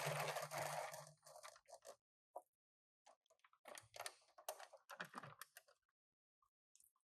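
Small cardboard toy-car box being handled and opened: rustling and scraping, then scattered light clicks and crackles in short bursts with silent gaps between.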